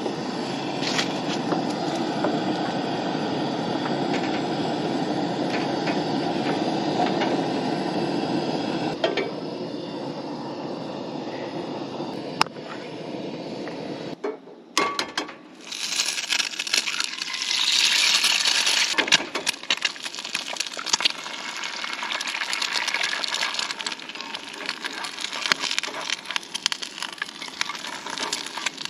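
A steady rushing noise for about the first half, then, after a cut, food frying in a pan on a camp stove: a bright sizzle full of small crackles and pops, with light metal clinks.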